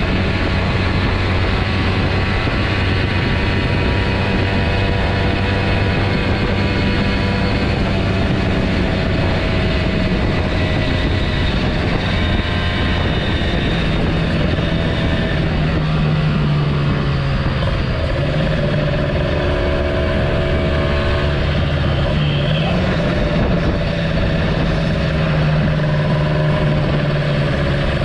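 Kawasaki Ninja motorcycle engine running steadily under way, with wind and road noise on the helmet microphone; its pitch drops a little about halfway through and wavers briefly near the end.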